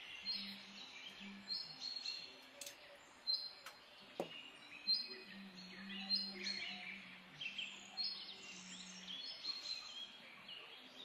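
Birds chirping in the background, one repeating a short high note about once a second, with a low on-and-off hum and a single light knock about four seconds in.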